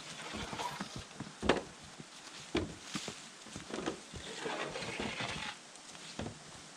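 Footsteps on a portage trail, an irregular run of short knocks and thuds with rustling of gear as the canoe is carried.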